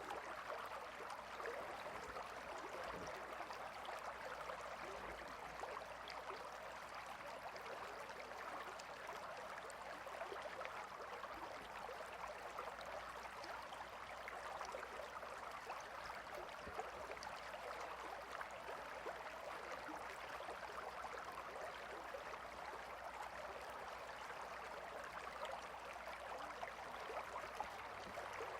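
A gentle river flowing: steady, soft water babbling and trickling with no change in level.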